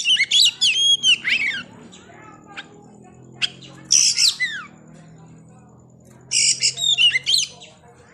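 Oriental magpie-robin (kacer) singing in three loud bursts of fast, varied phrases: swooping whistles mixed with harsh, scratchy notes.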